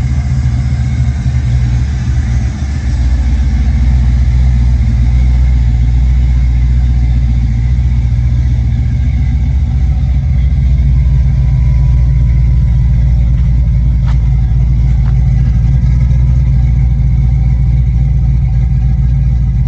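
Aluminum 6.0-litre LS V8 in a 1965 Chevy Nova idling steadily on its first start-up, loud and even, running a little rich.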